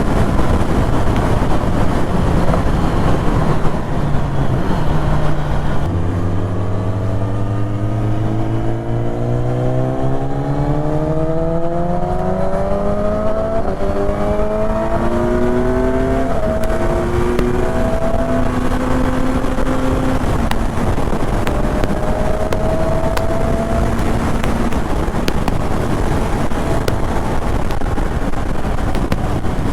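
BMW S1000RR inline-four engine through an Akrapovic titanium exhaust, with wind rush. The engine note dips briefly, then climbs steadily in pitch for about ten seconds as the bike accelerates, and holds roughly steady after that.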